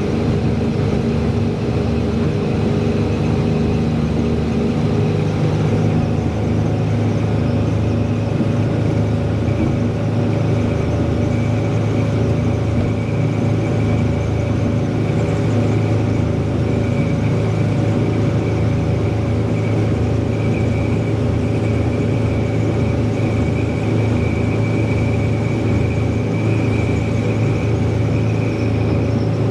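Twin sterndrive engines of a 1992 Sea Ray 380 Sun Sport running steadily under way, a constant low hum that holds the same speed throughout.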